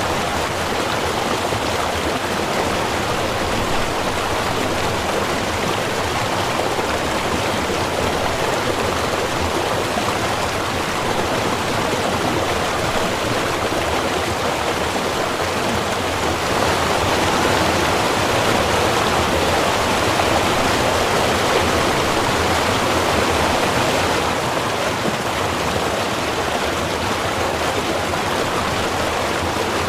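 A small river running steadily: an even rush of flowing water, a little louder for several seconds just past the middle.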